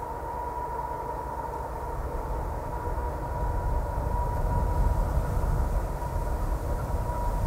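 Canadian Pacific train running past, its low rumble growing louder from about two seconds in, with a steady whine throughout.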